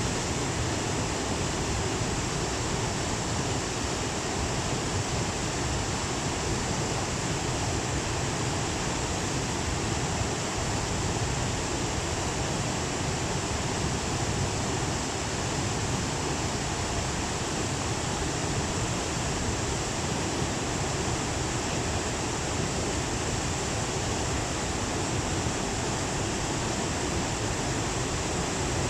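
Steady rush of the Tama River running high in flood after a typhoon, an even roar of water with no breaks.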